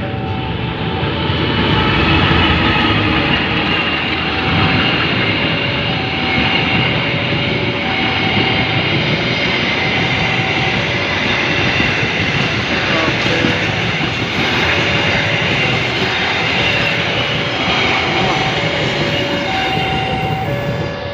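A train passing over a railway level crossing, its wheels rumbling loudly with steady high-pitched tones over the noise. The crossing's warning alarm sounds throughout, switching between two tones about once a second.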